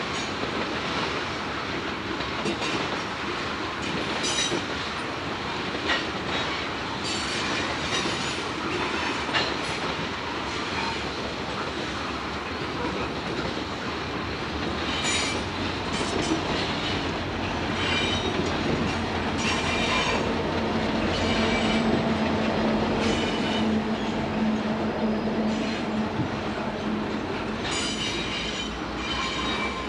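Norfolk Southern freight train rolling past: a continuous rumble and clatter of wheels on the rails, with short high-pitched wheel squeals every second or two.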